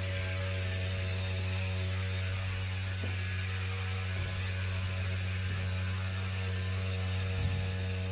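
Steady low electrical hum from HVAC equipment under load, with fainter higher overtones and a light hiss; this is the noise the service call is about.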